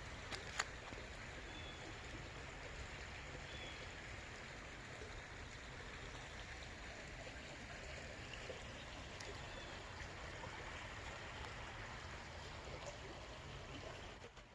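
Creek water flowing steadily, an even rush of running water, with a couple of sharp clicks just at the start.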